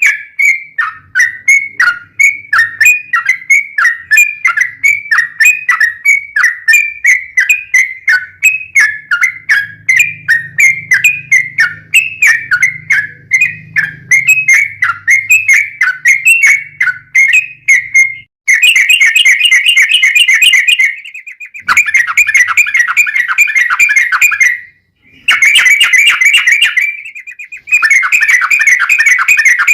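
Sooty-headed bulbul (trucuk) singing: a long run of short falling whistled notes, about two a second, then, about 18 seconds in, fast rattling trills in bursts of two to three seconds with brief pauses between them.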